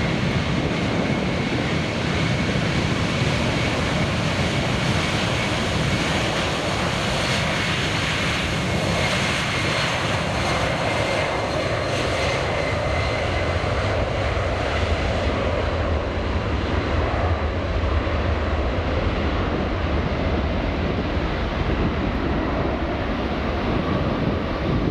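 Jet airliner's engines passing close by: a steady rushing noise with a thin whine. About two-thirds of the way through the high whine and hiss fade while a low rumble grows.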